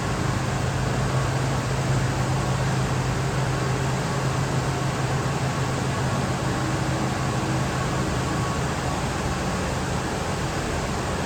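1977 Lincoln Continental Town Car's V8 engine idling steadily, a low even hum under a constant hiss.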